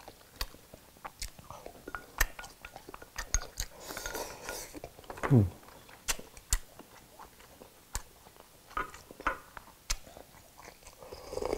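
Close-up eating sounds: chewing and biting of rice, shrimp and pork meatballs, with scattered soft clicks. About five seconds in there is a short falling vocal sound, and near the end a slurp of soup from a spoon.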